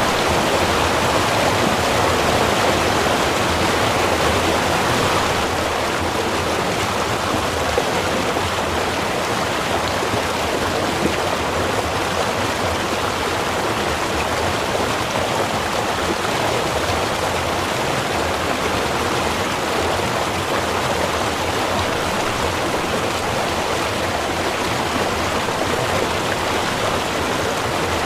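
Small river's water running steadily, an even rushing with a slight drop in level about five seconds in.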